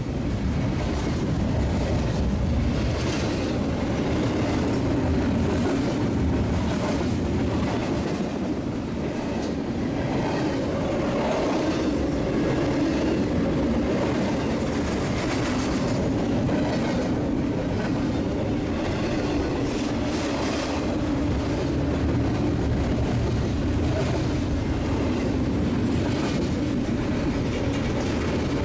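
BNSF freight train's container cars rolling past with a steady rumble, the wheels clicking in a regular clickety-clack over the rail joints.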